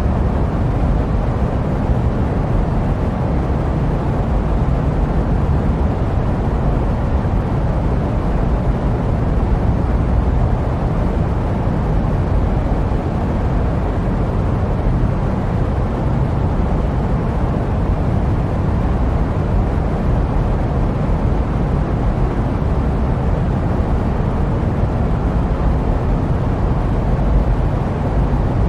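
Jet aircraft noise used as white noise: a steady, deep, even rush with no changes or distinct events.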